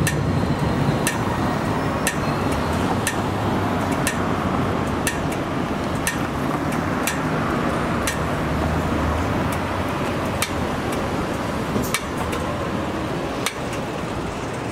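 Train passing on the tracks: a steady rolling rumble with sharp clicks about once a second.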